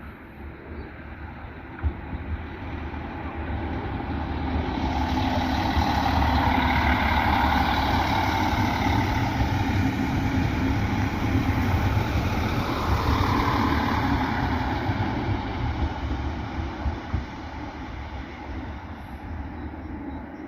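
A train passing through on the rails: the running noise swells over a few seconds, holds loud for about ten seconds, then fades away.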